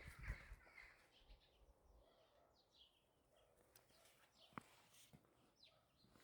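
Near silence outdoors with faint, scattered bird chirps and a few soft footsteps in the first second.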